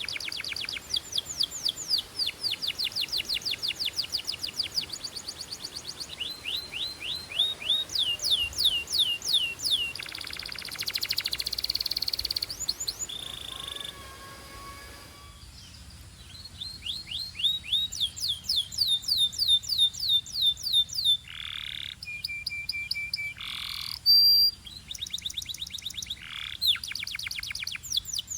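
Canary singing: long fast trills of quick, high sweeping notes, several a second, broken by a short buzzy roll and a few drawn-out whistled notes in the second half.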